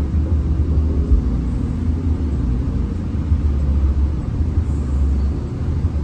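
Steady low rumble of a Hino RM 280 bus on the move, diesel engine and road noise together.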